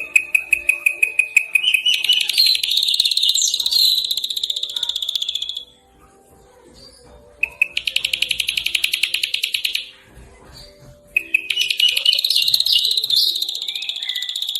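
Small songbird calling in rapid trills: a fast run of sharp repeated notes that shifts higher into a dense, buzzy trill. There are three bouts, with short pauses between them.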